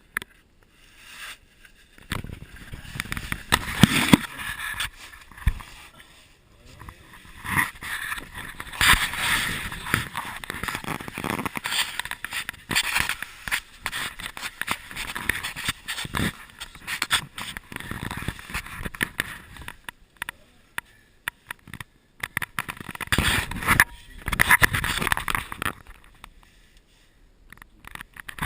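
Irregular scraping and rustling of clothing and gear against rock, with scattered knocks, as someone crawls through a narrow cave passage.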